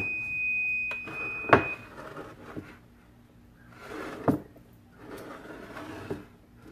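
A high electronic beep held for about two seconds, then kitchen handling sounds: several sharp knocks and clunks, the loudest about a second and a half in and another just past four seconds, with softer shuffling between them.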